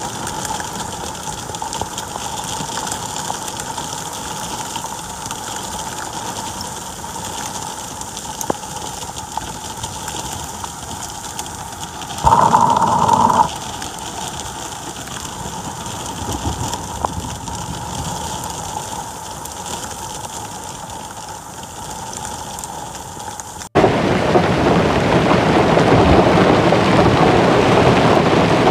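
Heavy rain pouring down, a steady hiss of rain hitting the ground. About twelve seconds in, a loud tone sounds for about a second. About twenty-four seconds in, the sound cuts abruptly to a louder, denser downpour on a paved street.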